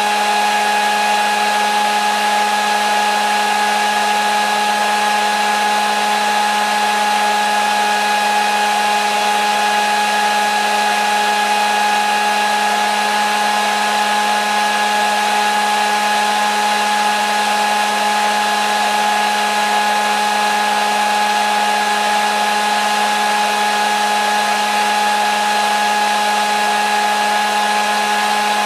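Electric hair dryer running continuously, a steady rushing of air over a constant motor hum with fixed whining tones, used as soothing white noise for a baby's sleep.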